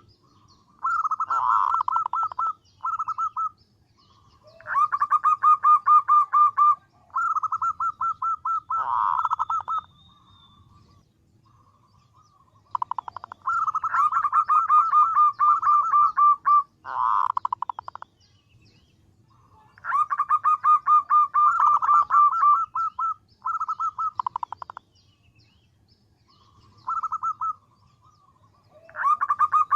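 Female zebra dove (perkutut) calling to attract males: repeated runs of rapid, staccato cooing notes, each run lasting one to a few seconds, with short pauses and some fainter runs between them.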